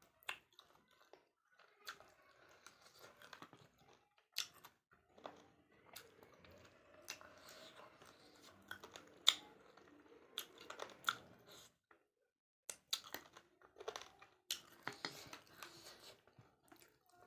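A person chewing and eating a meal of chicken and rice close to the microphone, with scattered wet mouth clicks, crunches and smacks.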